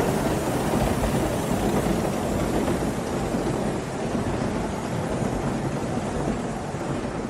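Aster live-steam model locomotive running, its steam exhaust giving a steady hiss that eases a little after about three seconds.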